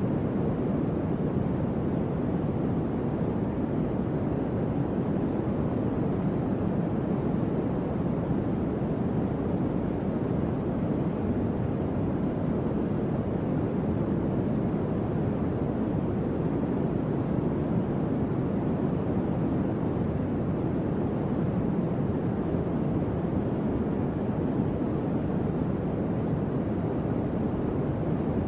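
Electric fan running steadily: an even, low-pitched whoosh of moving air with no change in speed.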